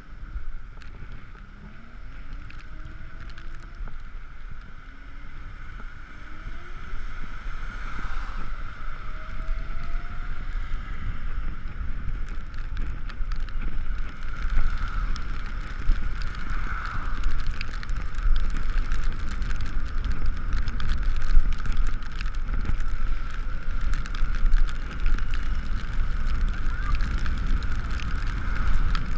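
Ekoway ML5000 electric scooter riding in the rain, with wind buffeting the GoPro microphone and a rushing road noise. A steady electric-motor whine runs throughout, rising in pitch three times in the first ten seconds as the scooter speeds up.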